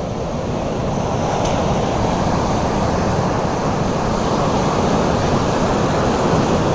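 Steady rushing of surf and strong wind buffeting the microphone, swelling slightly over the first couple of seconds.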